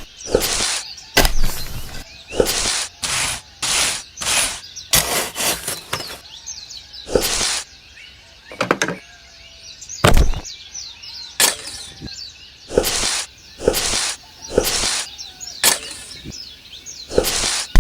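Irregular series of short, sharp knocks and cracks, roughly one every half second to a second, with birds chirping in the background.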